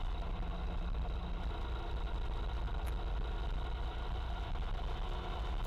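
Motorcycle engine running at a steady speed while riding: an even, low drone with no change in pitch.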